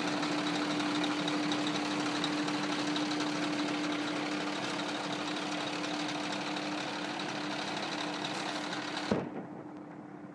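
Scania truck's diesel engine idling steadily. About nine seconds in there is a sudden thud, and the engine sound turns duller and quieter.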